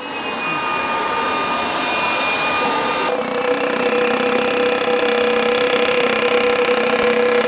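Rotary hammer drill running under load, a steady loud machine noise with a whine; its tone shifts about three seconds in.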